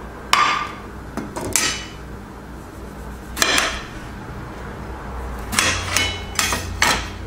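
Kitchen utensils and dishware knocking and clinking: about eight sharp knocks in irregular clusters, some with a short metallic ring, over a steady low hum.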